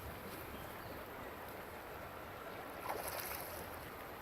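Shallow stream water running over stones as a steady rush, with a brief louder splash about three seconds in.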